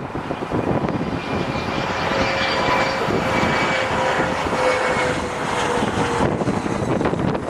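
Jet airliner passing close by: engine roar with a whine that slowly falls in pitch, stopping abruptly about six seconds in.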